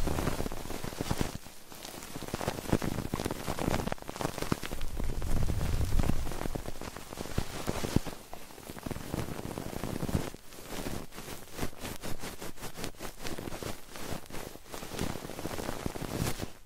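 Close-up ASMR triggers on a 3Dio binaural microphone: dense crackling and rustling made of many small clicks, with a low rumble swelling about five seconds in.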